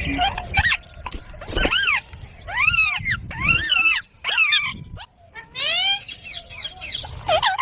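Green parrot giving a rapid series of harsh, screeching calls, each rising and falling in pitch. There is a short break about four seconds in, then the calls resume.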